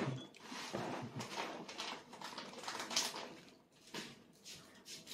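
A toddler eating a fried chicken wing: irregular soft mouth smacks and small clicks as she bites and chews the meat off the bone.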